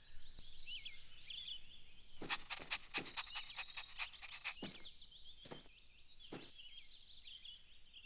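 Quiet garden ambience of small birds chirping and twittering, with several soft thumps scattered through.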